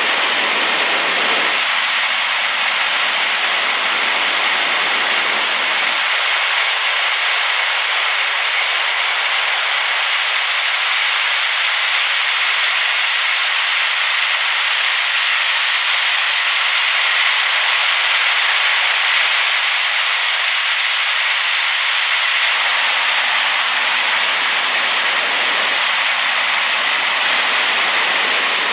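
Rain-swollen waterfall crashing steadily, a loud, even hiss of falling water strongest in the upper-middle range with little low rumble.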